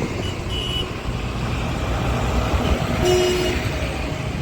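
Tractor engines running with a steady low rumble. A brief horn toot sounds about three seconds in.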